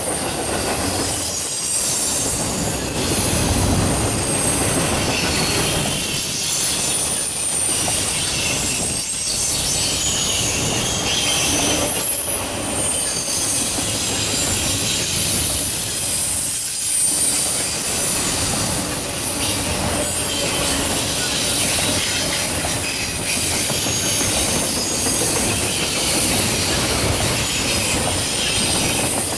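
Double-stack intermodal well cars rolling past at speed: a steady rumble of steel wheels on rail with a high, wavering squeal above it, dipping briefly every few seconds at the gaps between cars.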